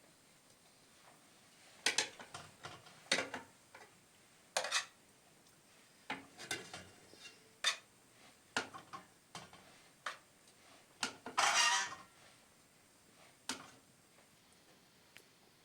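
Dishes and utensils knocking and clinking at irregular moments, with one longer scraping clatter about eleven seconds in.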